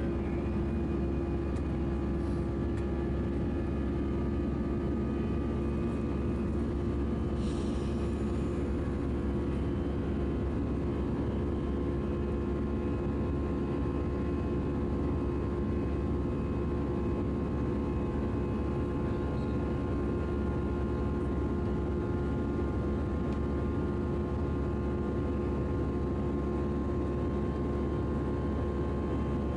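Steady jet engine and airflow drone inside the cabin of an Airbus A319-111 powered by CFM56 engines, with several steady tones over the rumble. There is a brief faint hiss about seven seconds in.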